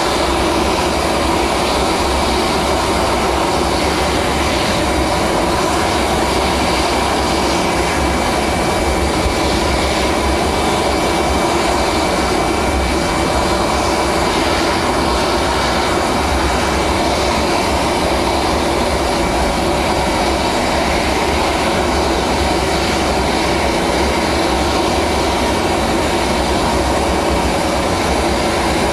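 Aircraft engine running steadily, a continuous even noise with a faint high steady whine and no change in level.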